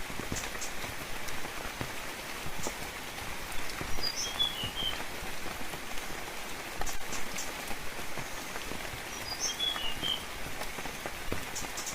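Steady rainfall with a constant patter of drops. A bird gives a short call of a few quick high chirps twice, about four and nine seconds in.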